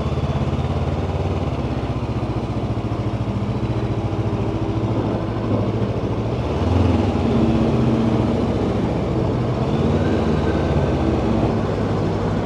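Honda CB500X's parallel-twin engine running steadily at low revs, getting somewhat louder about six and a half seconds in.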